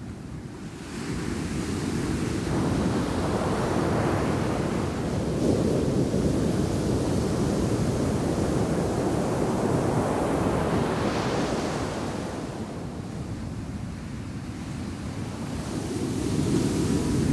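Ocean shore break crashing on a sand beach: one long wave surges in about a second in and washes for several seconds, the surf eases, then the next wave builds near the end.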